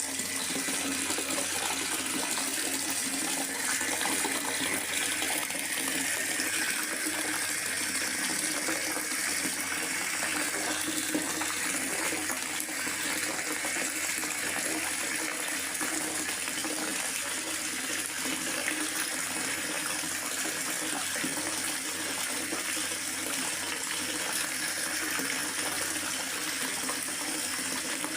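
Rain falling steadily in a forest, an even, continuous wash of water noise without breaks.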